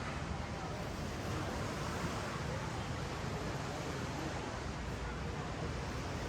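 Ocean surf washing steadily up and down a sandy beach, a continuous rushing noise.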